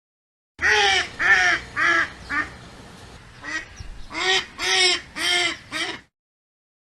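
A bird calling in a run of short harsh calls: four in quick succession, a brief pause, then about five more.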